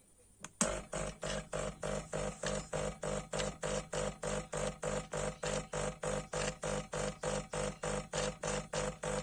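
De'Longhi Specialista Prestigio espresso machine's pump running in rapid even pulses, about four a second, with a steady hum underneath. It starts about half a second in, as the machine begins pulling an espresso shot.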